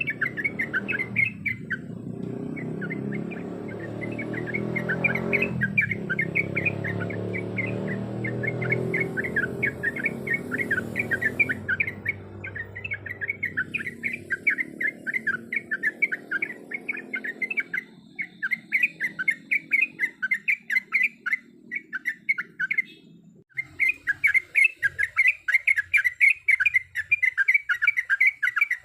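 Yellow-vented bulbul (trucuk) giving a fast, steady string of short repeated chirps, about five or six a second, with a brief pause near the end. A low rumble runs underneath for the first half.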